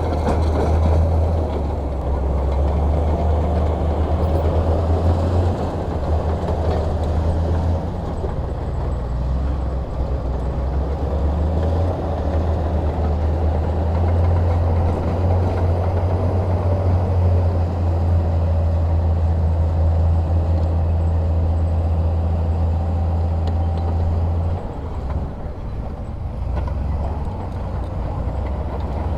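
Heavy diesel engine running under load, a steady low drone that varies in strength and eases briefly about 25 seconds in.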